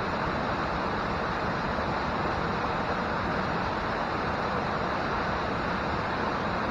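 Steady rush of falling water from a waterfall or cascading stream, even and unbroken.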